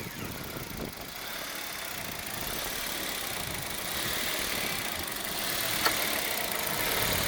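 2012 Hyundai i20 engine idling steadily just after being started, with one short click about six seconds in.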